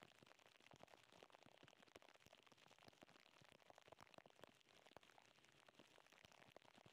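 Faint rain: many scattered drops ticking irregularly on surfaces over a soft hiss.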